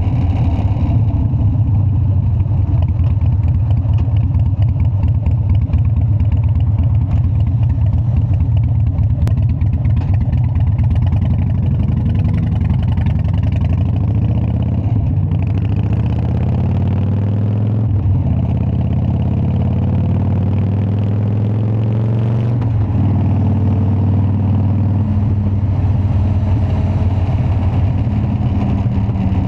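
Harley-Davidson Dyna's V-twin engine running. Its note climbs slowly through the middle, drops abruptly about three-quarters of the way through, then starts rising again.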